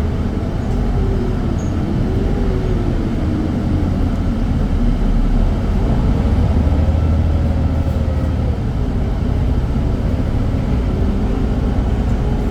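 Irisbus Citelis diesel city bus running under way: a steady low engine rumble with a faint whine that rises and falls in pitch as the bus speeds up and slows. The rumble is louder for a few seconds around the middle.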